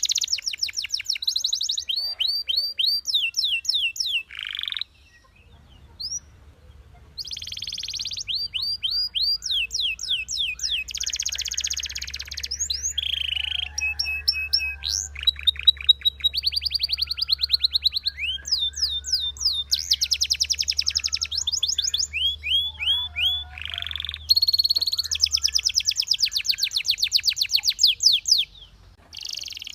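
Canary singing a long song of rapid trills: runs of fast, evenly repeated high notes, each run a few seconds long and changing pitch from one to the next. Short pauses come about five seconds in and near the end.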